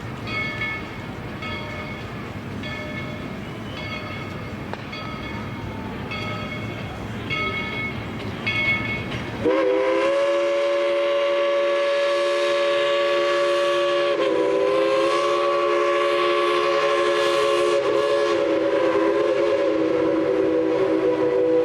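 Steam locomotive No. 190's bell ringing about every two-thirds of a second over the low rumble of the train. About nine seconds in, its steam whistle opens into one long, loud blast of several tones at once, shifting slightly in pitch partway through.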